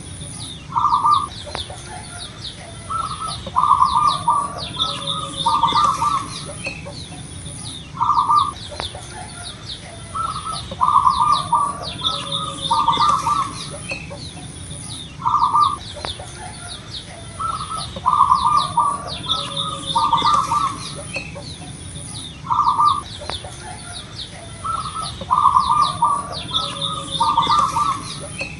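Zebra doves (perkutut) cooing: short rolling coo phrases repeated every second or two, some in quick pairs. High chirping and a steady high-pitched pulsing run underneath.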